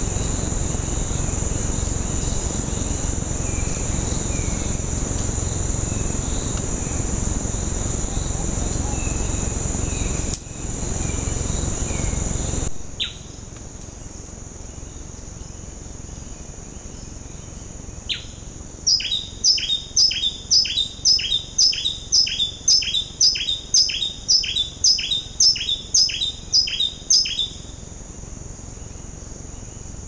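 Rainforest ambience: a steady high insect drone over a low rushing noise that stops abruptly about halfway in. Then a bird gives a regular run of about seventeen sharp, falling calls, roughly two a second, lasting about eight seconds.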